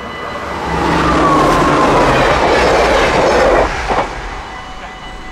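Train passing over a level crossing: its noise rises about a second in, stays loud for about three seconds, then drops away abruptly. The crossing's warning bell rings steadily before and after it.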